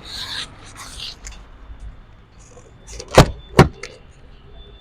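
Two sharp knocks about half a second apart, among faint clicks and background noise.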